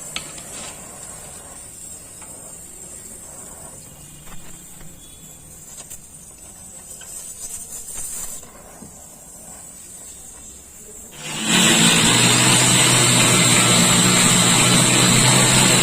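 A few light clicks and knocks, then about eleven seconds in a machine starts suddenly and runs loud and steady, a hiss over a low hum.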